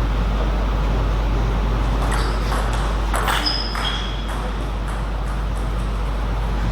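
A few sharp clicks and pings of a table tennis ball striking bat and table, clustered about two to four seconds in, over a steady low rumble and hum.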